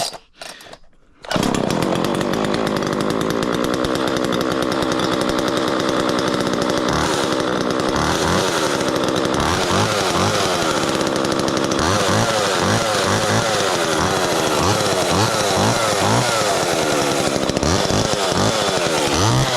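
Homelite XL two-stroke chainsaw cold-starting, catching about a second in and running at a steady speed. From about a third of the way through, the engine speed rises and falls again and again.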